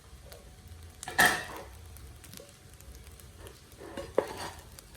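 Fried rice being stirred in a saucepan with a wooden spoon over a faint sizzle, with one louder scrape about a second in and a small knock near the end.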